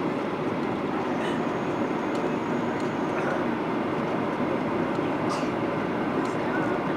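Steady rumble and rush of a Boeing 737-800 in flight, its CFM56 engines and airflow making an unbroken roar with a few faint clicks.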